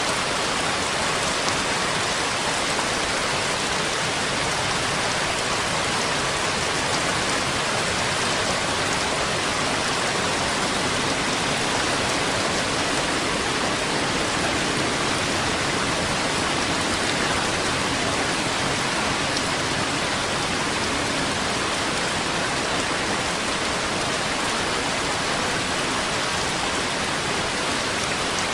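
Steady rain falling, an even dense hiss that stays at one level throughout, with no thunder or single drops standing out.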